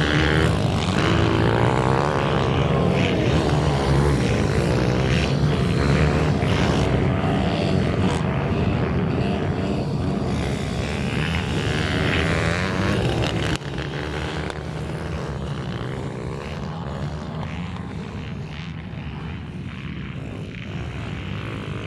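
Minibike engines buzzing at high revs, rising and falling in pitch as the bikes race. The sound drops suddenly a little past halfway and runs quieter after.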